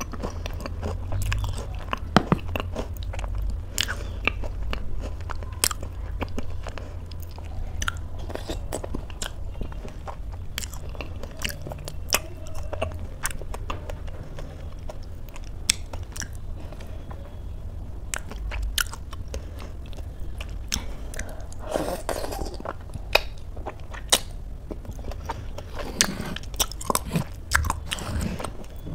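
A person chewing and biting a spoonful of oatmeal with crunchy toppings, with many sharp crunches and wet mouth clicks scattered throughout.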